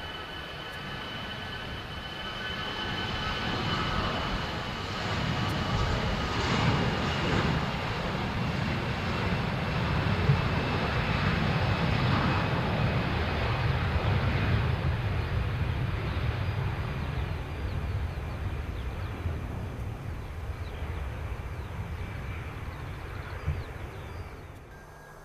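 Jet airliner's engines passing: a broad rumble with a high fan whine that slides slowly down in pitch. It swells to a peak around the middle, fades, and cuts off abruptly near the end.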